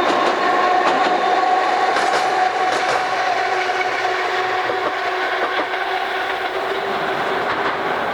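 Old-type electric railcar Deha 101 running, its nose-suspended traction motors giving a steady whine that slides gradually lower in pitch, over wheel-on-rail rumble with a few sharp clicks.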